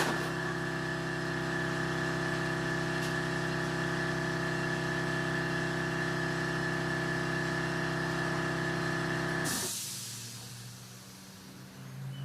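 An engine running steadily at a fixed speed, which stops abruptly about nine and a half seconds in, with a short hiss as it cuts off.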